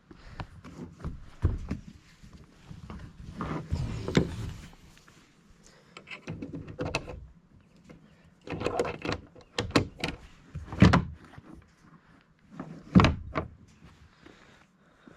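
Equipment being handled, giving a series of irregular knocks, thuds and clatters with short quiet gaps between them. The heaviest thumps come about a second and a half in, around eleven seconds in and near the end.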